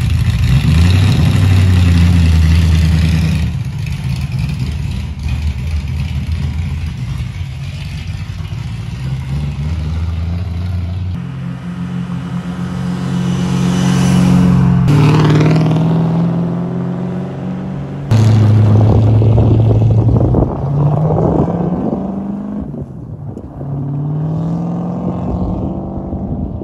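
The Rover 3.5-litre V8 of a Triumph TR7 V8, bored 20 over and fitted with a higher-lift cam, running and accelerating hard across several cut-together shots. The engine note rises in pitch a few times as it revs up.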